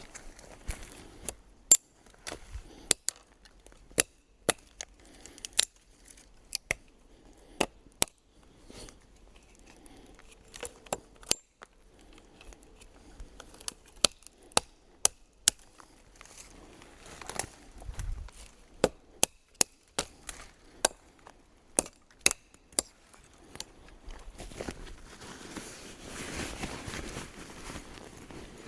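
Irregular series of sharp knocks, roughly one or two a second, with a rustling noise near the end.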